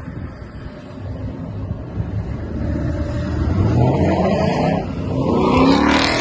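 A car engine accelerating and drawing closer. Its pitch and loudness rise over the second half, and it is loudest near the end.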